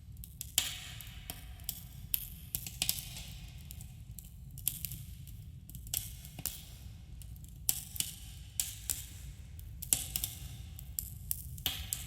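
Wood campfire crackling, with irregular sharp pops and snaps, several a second and some louder than others, over a steady low rumble.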